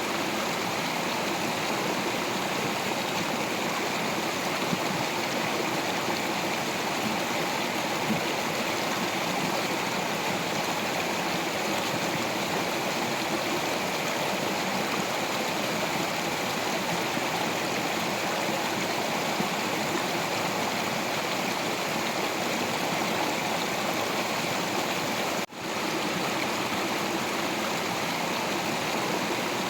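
Stream water flowing steadily over rocks, an even rushing and gurgling. The sound briefly drops out for a moment about 25 seconds in, then resumes.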